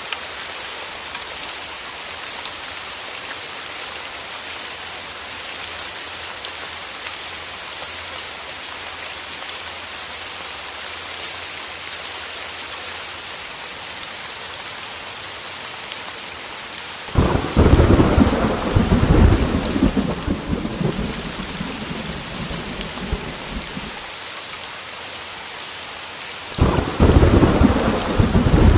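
Heavy rain beating steadily on a window glass, a dense hiss with fine drop ticks. About two-thirds through, thunder breaks in suddenly and rumbles for several seconds before fading. A second roll of thunder starts near the end.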